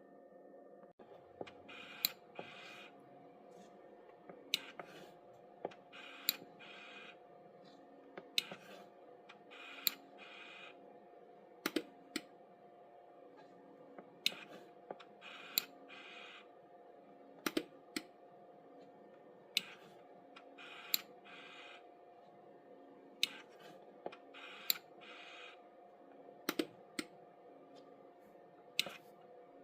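Bobcat keyless start panel being operated: sharp button clicks every second or two, most followed by one or two short electronic beeps, over a faint steady hum.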